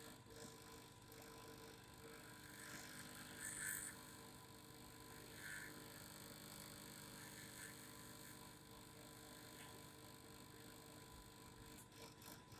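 Faint steady vibrating hum under a low hiss, with two brief faint sounds about four and five and a half seconds in.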